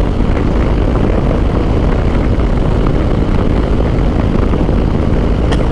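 Harley-Davidson motorcycle's V-twin engine running steadily at highway cruising speed, mixed with steady wind rush on the helmet-mounted microphone.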